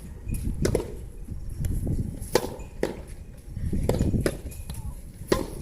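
Rubber soft tennis ball struck back and forth in a rally: a series of sharp, irregularly spaced pops from racket hits and ball bounces. Strong wind rumbles on the microphone underneath.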